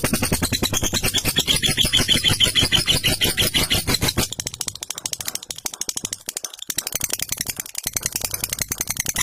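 Lovebird in long 'ngekek' song: a rapid rattling chatter of many short notes a second, going on without a break; about four seconds in it turns thinner and lighter.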